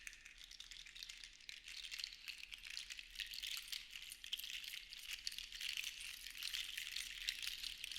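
Seashells rattling against one another in a shell shaker, a dense patter of tiny clicks that swells and ebbs in slow waves as it is swayed.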